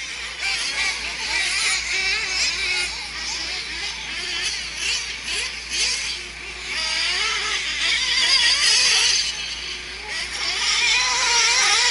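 Several nitro RC truck engines racing together, a high-pitched whine that keeps rising and falling as they accelerate and back off.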